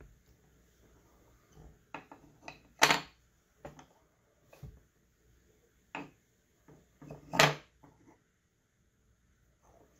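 Chunky walnut jigsaw puzzle pieces knocking against each other and on a wooden tabletop as they are handled and fitted together: scattered light clacks, two of them much louder, about a third of the way in and again near the three-quarter mark.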